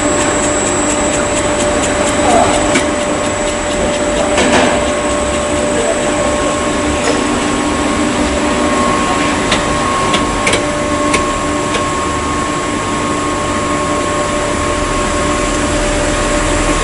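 Wood-plastic composite extrusion line running: steady machine noise with a constant hum and a high whine, and a few sharp clicks partway through.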